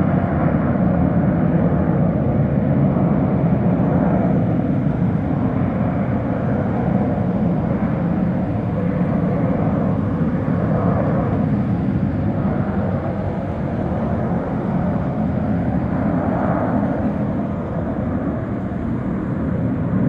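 Twin Pratt & Whitney JT15D turbofans of a Hawker Beechcraft 400XP roaring on takeoff and climb-out: a steady, deep jet rumble with slow swirling sweeps in its tone, easing off gradually toward the end.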